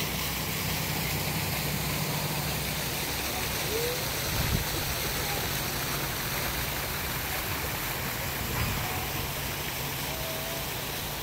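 Steady rushing of water from a mini golf course's waterfall feature, with a low hum underneath and a single dull thump about halfway through.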